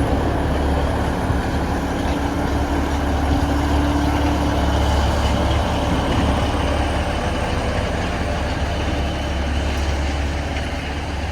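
Narrow-gauge diesel locomotive engines running steadily during depot shunting, a deep constant engine drone; a steady hum above it fades out about five seconds in.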